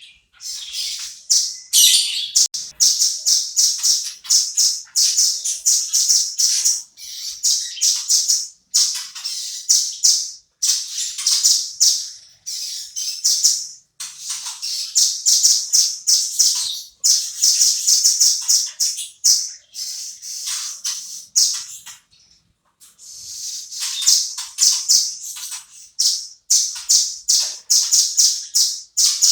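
Velvet-fronted nuthatch calling in long, rapid runs of sharp, high chattering notes, with a short break about three-quarters of the way through.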